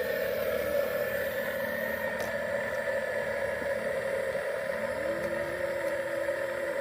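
Steady mechanical whine of small electric motors and gearing, as from a radio-controlled toy vehicle running, with a short higher tone held briefly about five seconds in.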